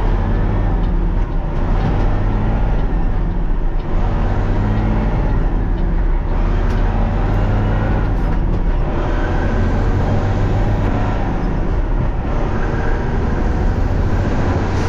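Engine of a heavy farm vehicle hauling chopped haylage, running steadily with a constant low hum and driving noise.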